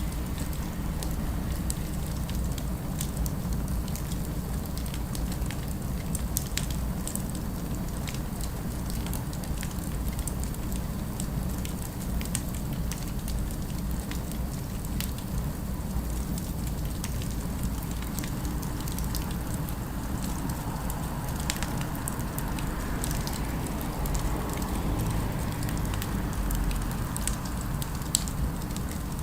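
Fire crackling with scattered sharp pops over a steady low rumble of city ambience. A faint swell rises in the middle range from about 20 to 26 seconds in.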